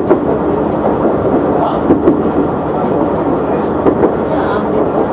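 KiHa 100 diesel railcar running along the line: steady engine and running noise with the wheels clacking over rail joints in quick pairs about every two seconds.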